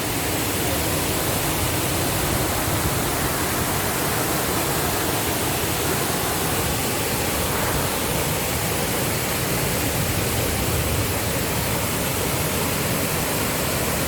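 Steady rush of a waterfall and stream flowing over rocks.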